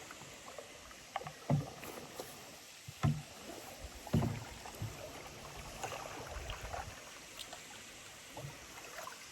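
Canoe being paddled on a river: paddle strokes in the water with three sharp knocks in the first half.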